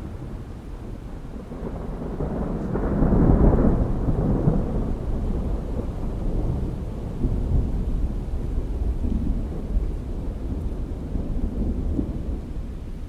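Thunder rolling, swelling to its loudest about three seconds in, then rumbling on unevenly and easing off, with rain falling underneath.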